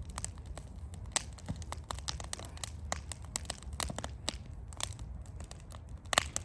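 Campfire crackling as the wood catches, with irregular sharp pops several times a second over a low steady rumble.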